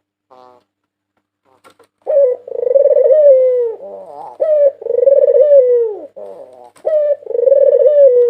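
White Barbary dove (puter putih) cooing. Starting about two seconds in, it repeats the same call three times: a short note, then a long coo that slurs down in pitch at the end.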